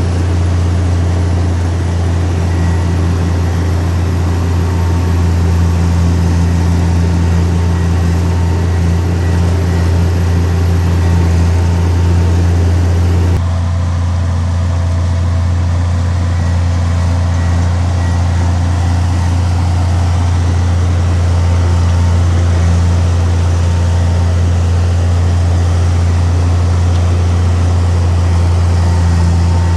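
Heavy diesel engine running steadily with a constant low hum. The sound shifts slightly at an abrupt change about thirteen seconds in.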